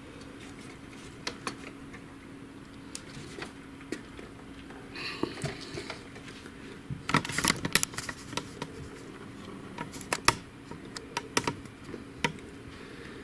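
Plastic parts of a partly dismantled inkjet printer being handled: scattered light clicks and knocks, with a burst of louder clatter about halfway through and a few sharper clicks a couple of seconds later.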